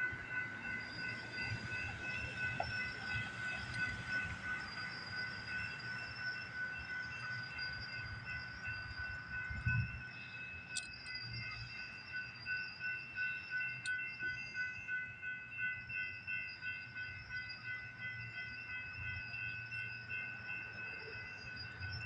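A stopped train: a low, steady rumble under several high ringing tones that pulse evenly and never let up.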